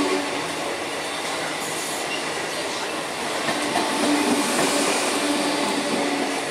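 ICF-built EMU electric local train running past close by: a steady rumble and rattle of the coaches' wheels on the track, with a faint steady hum beneath.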